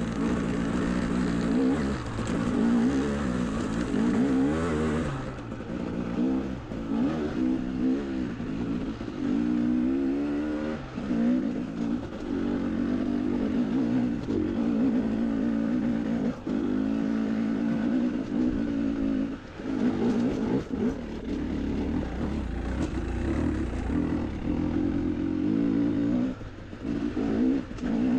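KTM 300 XC-W dirt bike's two-stroke single-cylinder engine revving up and down under varying throttle on a rocky trail, with short dips where the throttle is closed.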